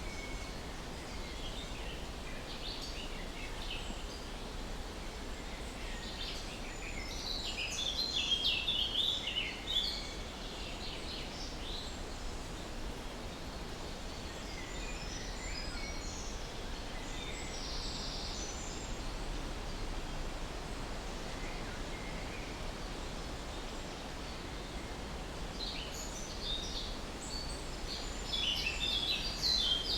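Birds chirping and singing over a steady outdoor background hiss. Brief chirps are scattered throughout, with two busier bursts of rapid song: one about a third of the way in and another near the end.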